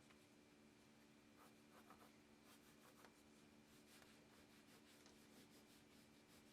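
Faint, quick scratching strokes, like a pen or stylus being drawn across a surface, possibly marking or tracing on leather, over a steady low hum.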